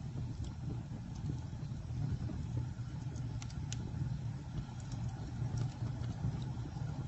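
Bonfire burning with a steady low rumble of flames and scattered faint crackles and pops.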